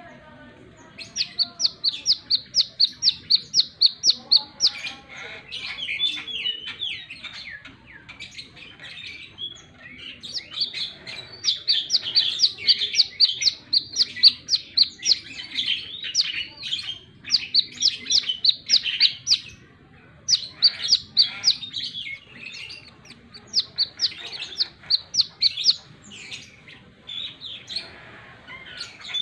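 Brown-throated sunbird (kolibri kelapa) singing its 'wiceh' song: runs of rapid, sharp, high notes at about five a second, each run lasting a few seconds, broken by short pauses and looser twittering.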